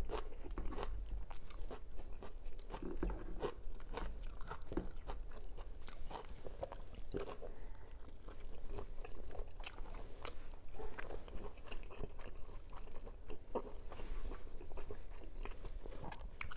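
Close-miked eating sounds: a person biting and chewing longganisa sausage and rice by hand, with irregular wet smacks, clicks and crunches.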